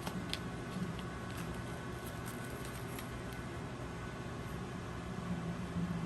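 Microwave oven running with a steady hum while heating a cup of water, with a few light clicks about a second in.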